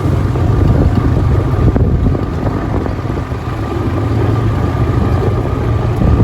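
An engine running steadily under way, a deep rumble with wind buffeting the microphone.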